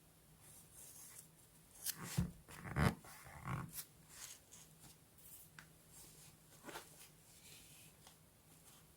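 Paper and journal handling at close range: a cluster of rustles and soft knocks about two to four seconds in, then a few fainter rustles.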